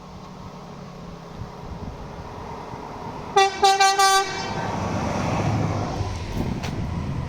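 Train horn giving a quick series of about four short toots, about halfway through, over the rumble of an approaching train, which then grows louder as the train runs in.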